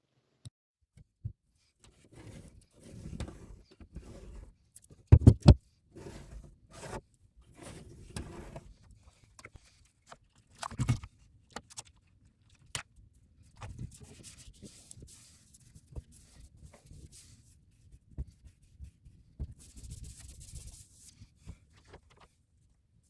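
Hands working with cardboard and tape: irregular rubbing, scraping and tearing sounds with scattered light taps, and two sharp knocks about five seconds in.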